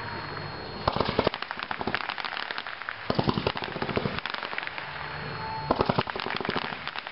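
Brothers Firebrand 140-shot consumer fireworks cake firing: continuous crackling and popping of bursting shots, with a cluster of sharper, louder reports about every two and a half seconds.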